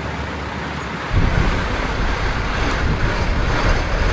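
Motor vehicle noise: a steady hiss with a low rumble that comes in sharply about a second in and holds.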